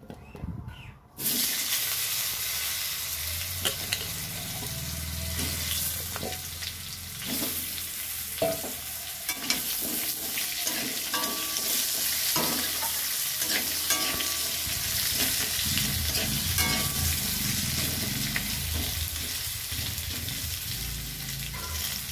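Potato wedges hit hot oil in a kadai and start sizzling about a second in. The sizzling carries on steadily while a metal spatula stirs and scrapes them around the pan, with scattered clinks.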